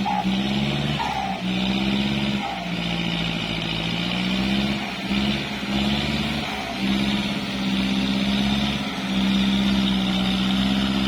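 Kubota tractor's diesel engine running, its pitch stepping up and down with brief dips as engine speed changes.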